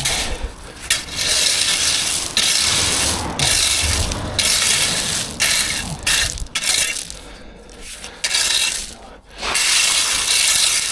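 Gravel being shovelled and spread for a foundation base: a run of about eight rough, rattling scrapes, each lasting about a second, with short pauses between.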